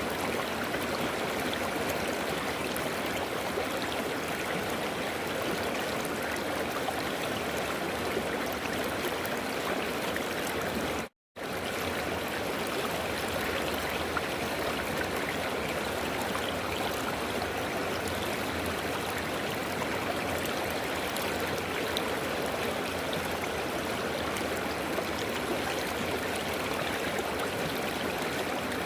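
River water flowing steadily, with a dense, even rush and splash. The sound cuts out completely for a split second about 11 seconds in, then resumes unchanged.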